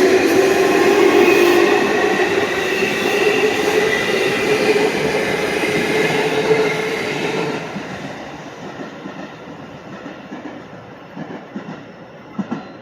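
JR Central Chūō Main Line electric train running through the station, its rumble carrying a steady whine. It fades away about eight seconds in, and a few wheel clacks follow near the end.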